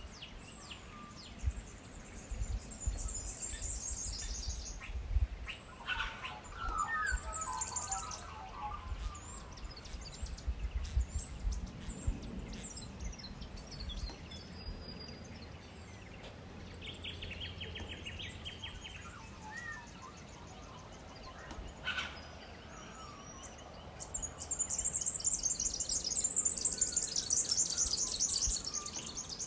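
Wild birds chirping and trilling in several bursts, the densest and loudest run of rapid chirps near the end, over a low rumble of wind on the microphone through the first half.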